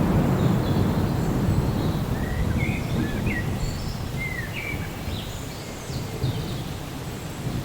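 A long, low roll of thunder that swells right at the start and slowly dies away over a steady hiss of rain. A bird chirps a few short calls in the middle.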